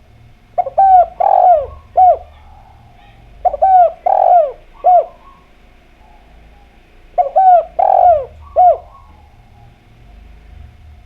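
Spotted dove (derkuku) cooing: three phrases of about four falling coos each, a couple of seconds apart.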